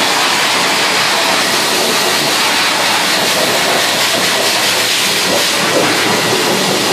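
Dog blow dryer running steadily, giving a loud, even rushing hiss of forced air.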